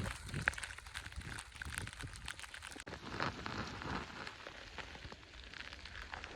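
Sleet-like ice pellets pattering and ticking on the phone and clothing, a dense, faint crackle with no single loud event.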